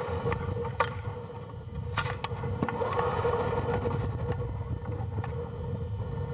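Steady low rush of wind on the microphone, with a steady hum and a few faint clicks.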